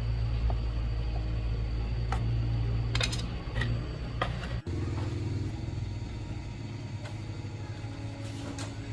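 Motorcycle engine running steadily at idle, with a few sharp clicks; the sound changes abruptly about halfway through, as at an edit, and the engine continues at a lower rumble.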